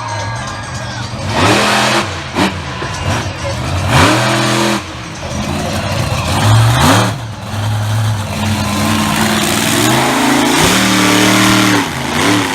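Monster truck engine revved hard in repeated bursts, its pitch climbing and dropping several times.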